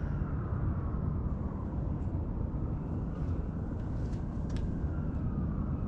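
Steady outdoor rumble like distant traffic, with a faint tone falling in pitch near the start and again near the end, and a couple of light ticks.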